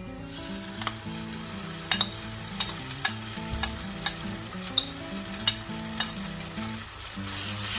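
Marinated chicken slices sizzling as they hit the hot oil in a non-stick frying pan. A metal spoon clicks against the ceramic bowl about once or twice a second as the rest of the marinade is scraped out. The sizzle grows a little louder near the end.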